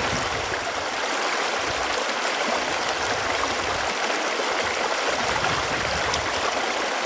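Running water: a steady, even rush of flowing water with no breaks or changes.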